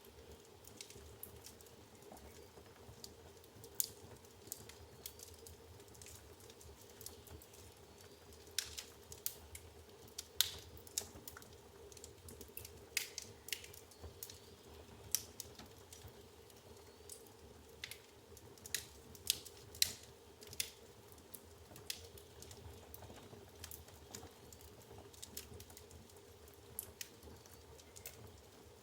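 Firewood crackling in an open fireplace: irregular sharp snaps and pops, sometimes several in quick succession, over a faint steady hum.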